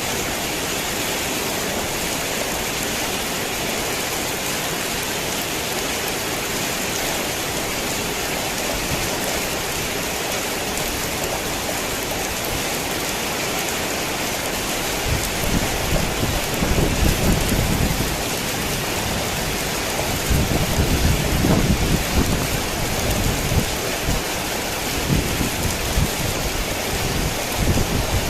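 Heavy rain falling steadily, an even hiss. From about halfway through, low thunder rumbles in several rolling waves, louder than the rain.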